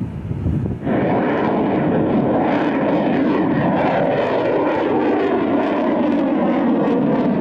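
Kalibr cruise missile launching, the loud rushing noise of its rocket booster starting suddenly about a second in and holding steady before cutting off sharply.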